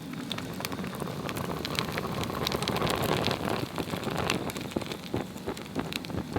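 Swedish torch log fire burning: many small sharp crackles and pops over a steady rushing hiss of flame.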